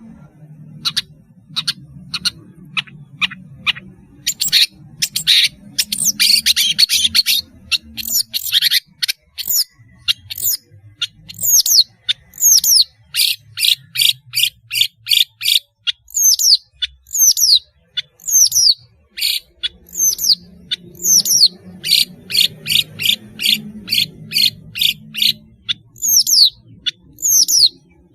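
Long-tailed shrike (pentet, cendet) singing loudly: a rapid scratchy chatter early on, then a long series of sharp, short notes that fall in pitch, about two a second. A faint low hum lies under it.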